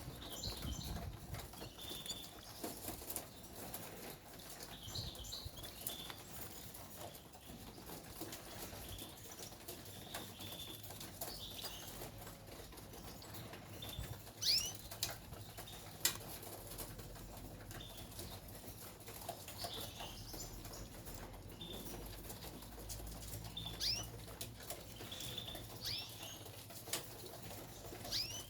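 Caged white canaries giving scattered short chirps and quick rising call notes, with wings fluttering and small clicks and taps as they hop about the cage.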